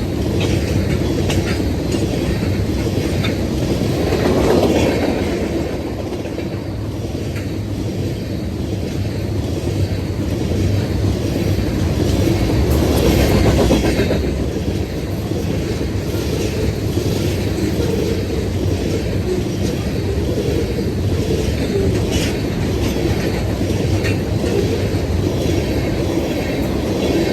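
Loaded crude oil train of tank cars rolling past: a steady rumble with wheels clacking over the rail joints, swelling twice.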